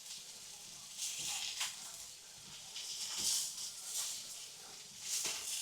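Meat and peppers sizzling on a hot marble slab over a fireplace fire, a soft hiss that flares up in short spurts every second or so.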